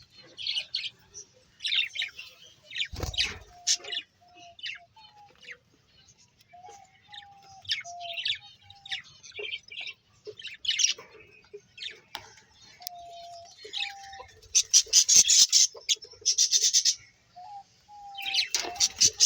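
Small birds chirping and tweeting, with clusters of quick chirps, the densest about three quarters of the way through, and short, lower, steady notes scattered among them.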